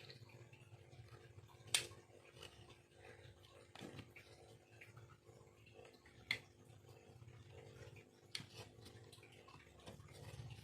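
Four sharp clicks about two seconds apart over a faint, steady low hum.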